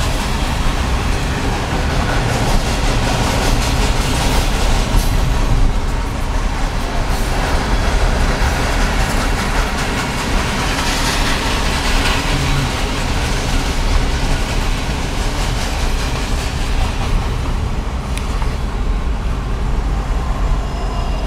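Loaded grain hopper cars of a freight train rolling past. The steel wheels make a steady rumble on the rails.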